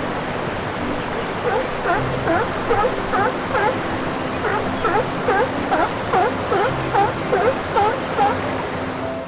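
A quick series of short chirping animal calls, two or three a second, over a steady rushing noise like running water.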